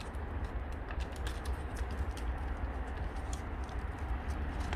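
Hot-air heater fan running with a steady low hum, with scattered light clicks over it.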